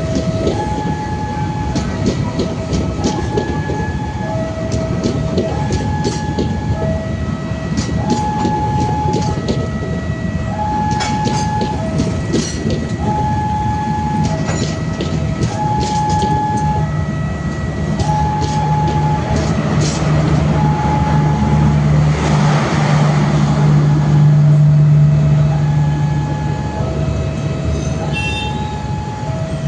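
A railway level-crossing alarm rings an electronic two-note ding-dong over and over, while a train rolls past with rapid wheel clicks over the rail joints. A diesel locomotive's engine swells up from about two-thirds of the way in, is loudest shortly after, then fades near the end.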